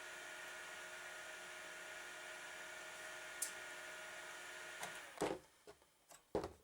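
Desktop computer's cooling fan running with a steady whirr and a faint whine, stopping suddenly about five seconds in, followed by a few sharp clicks and knocks.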